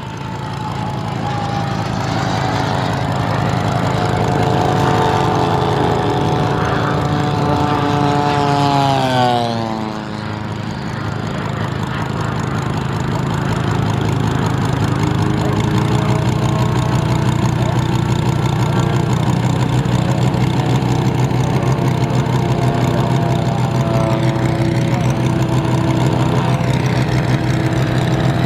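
Moki radial engine of a large radio-controlled Corsair model running, a loud, steady rumble. About nine seconds in its pitch slides down and it briefly eases off, then it settles back to a steady run.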